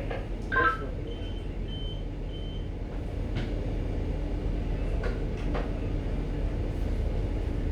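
Steady low hum of a ship's machinery on the bridge during berthing. About a second in come three short, high electronic beeps, evenly spaced, then a few faint clicks.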